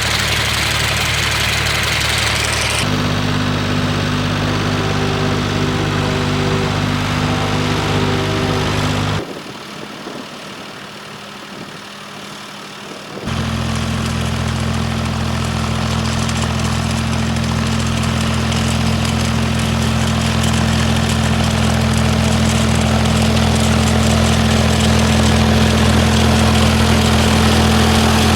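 Engine running steadily as it powers a sickle bar mower cutting hay. About nine seconds in, the engine drops away to a quieter hiss for around four seconds, then comes back.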